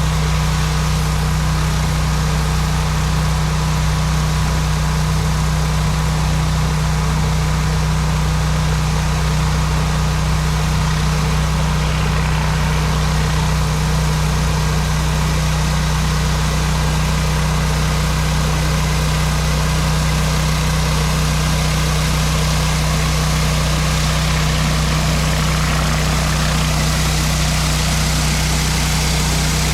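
Pressure washer running steadily: a constant engine hum under the hiss of high-pressure water spraying onto concrete.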